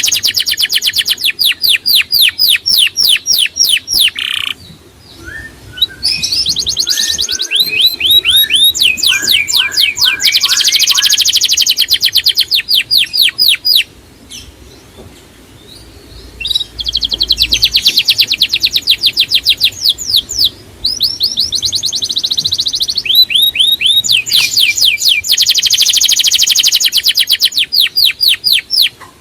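A songbird singing loud, fast trills of rapidly repeated high down-slurred notes. The trills come in phrases several seconds long, with short pauses between them.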